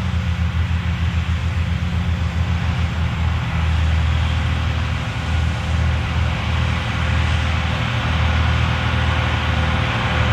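Massey Ferguson 2680 tractor's six-cylinder diesel running steadily under load while pulling a cultivator through the field.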